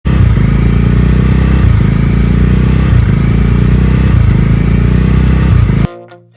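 Motorcycle engine running steadily and loudly just after a cold start, with a faint regular swell in its note, cutting off suddenly near the end.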